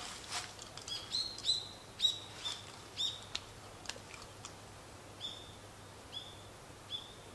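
A bird calling a run of short, high chirps, about two a second for a few seconds, then three more spaced out near the end.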